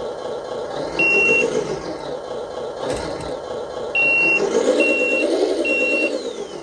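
Simulated V8 truck engine sound from an RC truck's LESU sound module, played through its small speaker, revving up and back down twice as the throttle is pushed. A high electronic beep sounds about a second in, then three evenly spaced beeps like a reversing alarm during the second rev.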